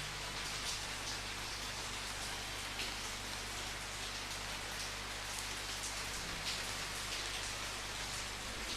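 Steady rain falling, an even hiss with scattered louder drops splashing every second or so.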